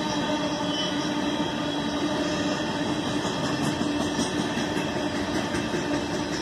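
Empty ore cars of a freight train rolling past at steady speed: a continuous rumble and clatter of wheels on rail, with a steady tone underneath.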